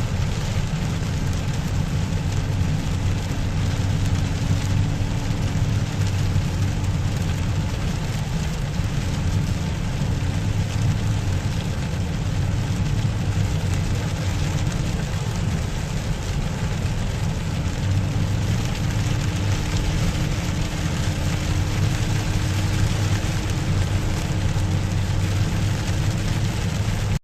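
Steady rain falling, mixed with a low, constant hum like a vehicle engine running.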